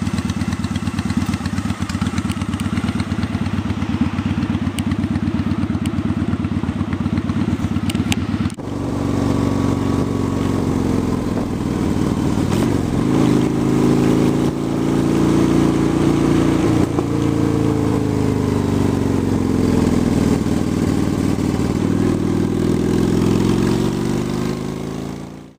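2003 Honda Shadow 750's V-twin engine running at a steady pitch. About eight seconds in it cuts to the engine again, its pitch slowly rising and falling as engine speed changes.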